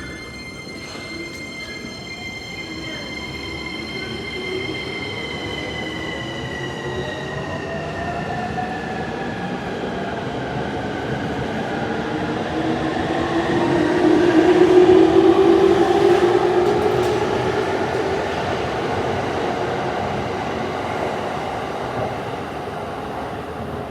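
Electric commuter train pulling out of the station: the inverter-driven traction motors whine in several tones that shift in pitch as it gathers speed. The rumble of the cars on the rails builds to its loudest about 15 seconds in, then slowly fades.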